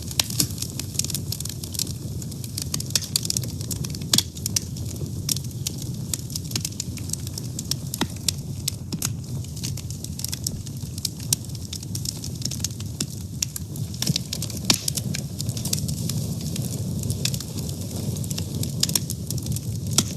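A fire burning: a low steady rumble of flames with frequent sharp crackles.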